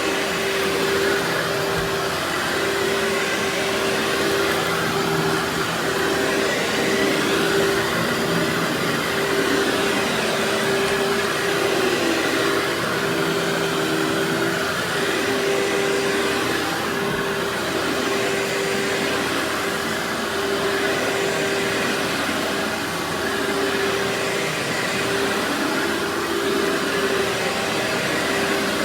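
Workhorse vacuum cleaner running steadily: a motor whine at one pitch that wavers and drops out briefly now and then, over a continuous rush of air.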